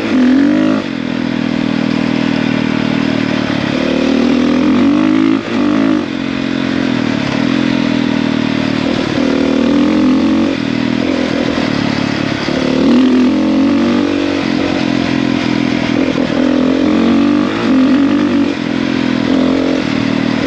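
450cc four-stroke single-cylinder dirt bike engine running under way, its note rising and falling with the throttle, with a couple of brief dips.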